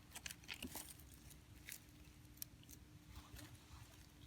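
Near silence, with faint scattered clicks and crackles and a faint steady hum.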